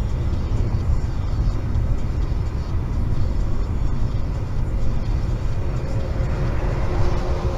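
Steady road and engine rumble inside a moving car, picked up by a dashcam.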